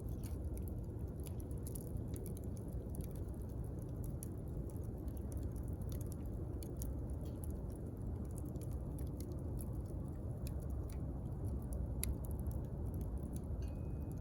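Wood fire crackling: irregular sharp pops and snaps over a steady low rumble of the burning flames.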